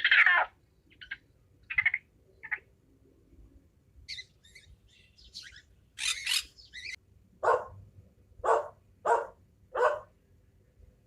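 A string of short animal calls with gaps between them: a few calls in the first seconds, a run of high thin chirps in the middle, then four louder short calls in quick succession near the end.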